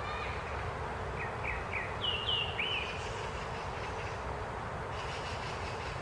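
Birds calling in a forest: three short falling chirps about a second in, then a few higher swooping notes around two seconds in. Underneath is a steady low rumble and hiss.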